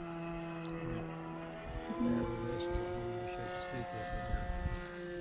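Engine of a radio-controlled T-34 Mentor model airplane droning in flight, its pitch rising a little, then easing down near the end. The engine is running rich, the usual setting while breaking in a new engine.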